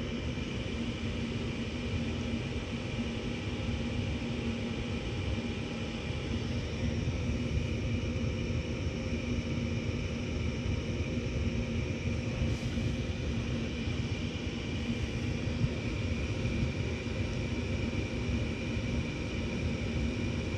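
Gas furnace's fan motor running with a steady hum over a low rumble of moving air.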